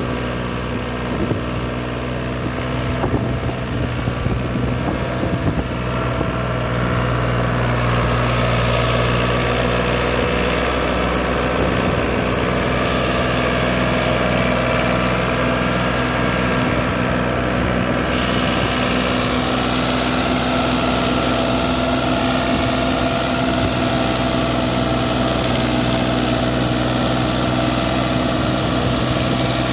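Diesel tractor engine running steadily while hauling a soil load, with a few knocks and rattles in the first several seconds; it grows louder about seven seconds in and stays there.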